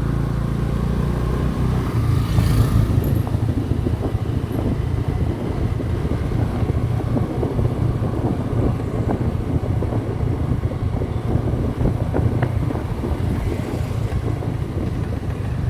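Motorcycle engine running while riding along the road, with wind buffeting the microphone.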